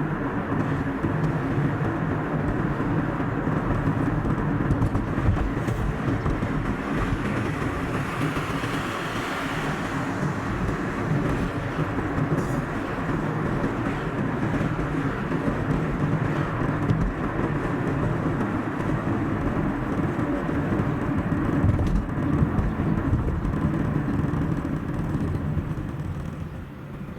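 Steady road and engine noise of a moving car, sped up to double speed, dropping off near the end.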